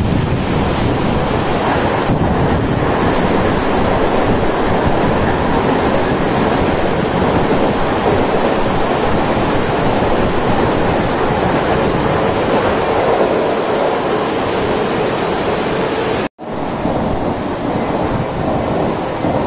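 Heavy rain and gusting wind on the microphone, a loud steady rush. About three-quarters of the way through it cuts out for an instant, and a slightly quieter rush follows.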